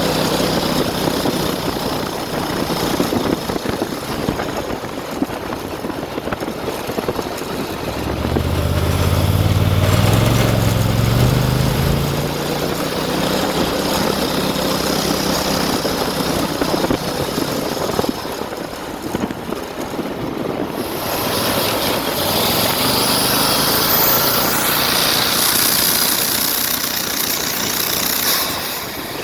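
Turbocharged Honda GX620 V-twin go kart engine running, revving up and back down about eight to twelve seconds in.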